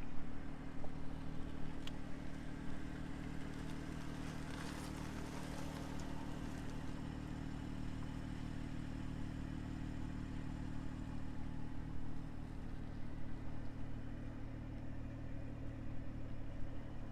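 Engine of a 2020 BMW M340i xDrive, a turbocharged 3.0-litre inline-six, idling steadily with no revving.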